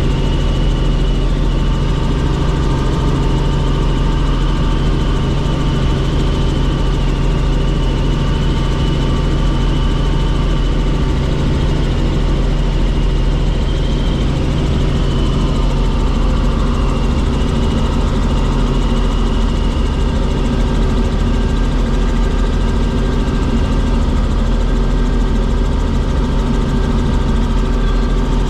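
Helicopter heard from on board: a steady, loud engine and rotor drone with a high turbine whine above it that wavers slightly in pitch.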